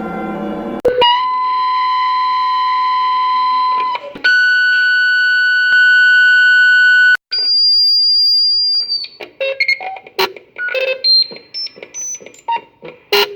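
Electronic emergency alert alarm tones. A siren-like sound cuts off about a second in, followed by a steady tone for about three seconds, a higher steady tone for about three seconds, and a single high-pitched tone for nearly two seconds. Then comes a rapid run of short beeps at changing pitches.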